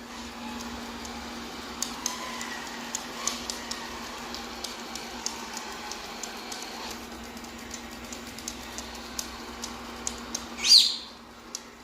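Robot vacuum cleaner running with a steady hum, with scattered light clicks. Near the end a pineapple conure gives one loud, sharp call that sweeps up and back down.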